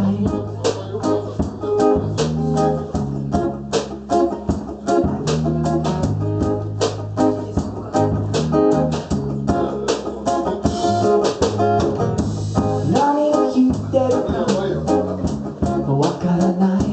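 Live band playing an instrumental passage: guitar and bass guitar over a steady beat.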